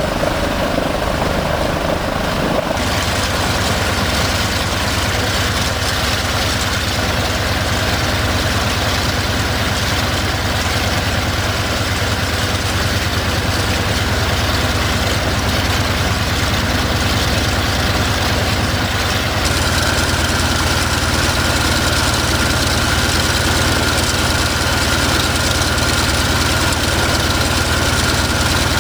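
Douglas DC-6's Pratt & Whitney R-2800 radial piston engines running steadily on a ground engine test run, heard from the cockpit. The sound shifts abruptly about three seconds in, and again about two-thirds of the way through, when a steady higher tone joins it.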